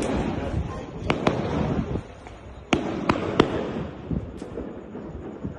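A string of sharp bangs and pops, about half a dozen in the first three and a half seconds, over a rumbling crackle that fades near the end.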